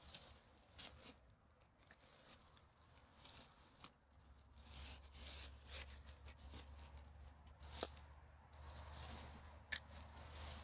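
Irregular rustling and crinkling of rubbish being picked up and handled, with a sharp click about eight seconds in and another near the end.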